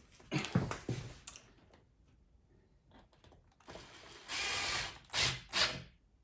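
Saddle-making hand work: a few knocks and rubbing sounds. Then, after a pause, about a second of a steady scraping, whirring tool noise, followed by two short scrapes.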